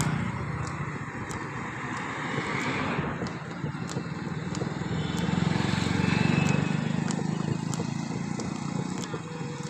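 Vehicle engine running steadily, a low rapid firing rumble that swells and eases a little, with road or wind noise over it.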